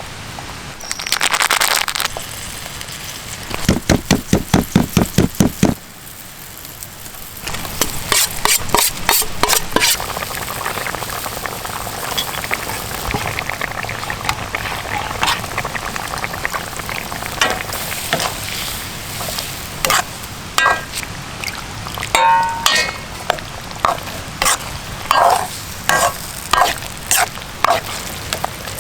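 Mapo tofu sizzling in a pan while it is stirred, with many sharp scrapes and knocks of the utensil against the pan.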